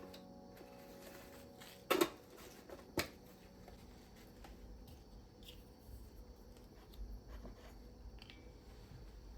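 Quiet room with two sharp knocks, about two and three seconds in, then scattered faint clicks and light handling sounds.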